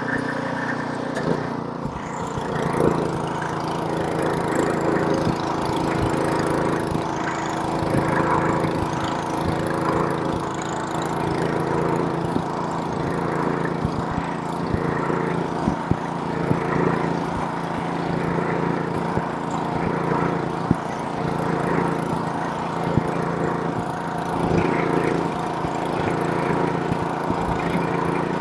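Snowblower's small gasoline engine running steadily, with a few short sharp clicks scattered over it.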